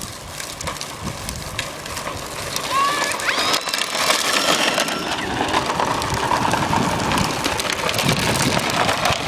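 Bicycles setting off, with a steady crackling, crunching noise of tyres rolling over a rough surface. A few brief high-pitched squeals come about three to four seconds in.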